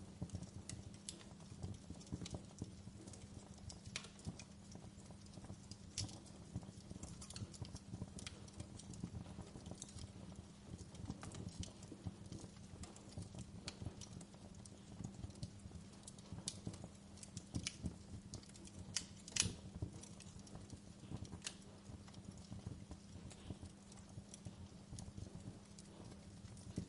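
Wood fire crackling in a fireplace: frequent small sharp pops and snaps over a steady low rumble, with one louder pop about two-thirds of the way through.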